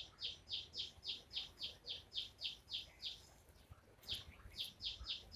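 A bird calling repeatedly outdoors: a fast, even series of short, high, falling notes, about seven every two seconds, which breaks off about three seconds in and starts again a second later.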